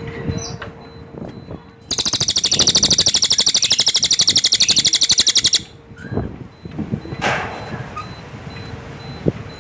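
A bird known in Indonesia as the cililin giving a loud, very rapid high-pitched trill, a fast buzzing run of pulses that starts about two seconds in and lasts about three and a half seconds. A few short, softer calls follow.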